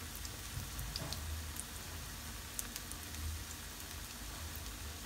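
Beef shami kababs shallow-frying in hot oil in a non-stick pan: a steady sizzle with scattered small pops and crackles.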